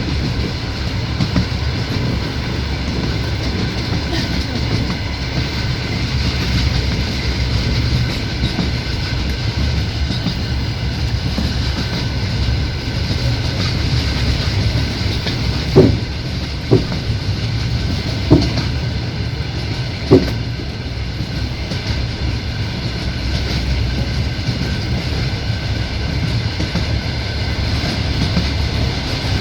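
Passenger train carriage running at speed, heard from inside: a steady rumble of wheels on the rails, broken by four sharp clacks a little past halfway as the wheels strike rail joints.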